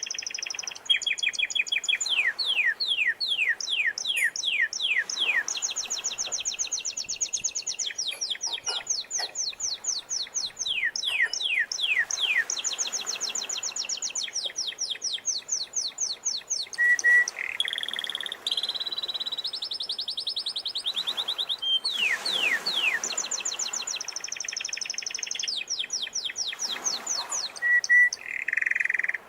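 Domestic canary singing in a continuous string of phrases: rapid trills and rows of quickly repeated falling notes, the pattern changing every few seconds, over a soft wash of sea waves.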